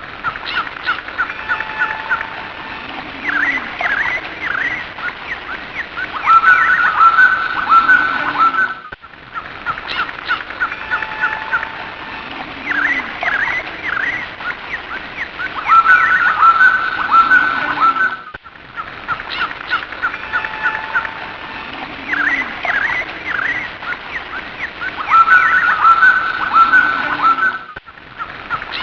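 Birds chirping and trilling, a short recording looped so that the same passage repeats about every nine seconds with a brief drop between repeats.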